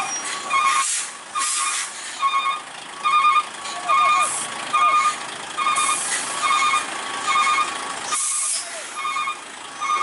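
A truck's reversing alarm beeping steadily, a little more than once a second, while short hisses of compressed air from the truck's air brakes break in several times.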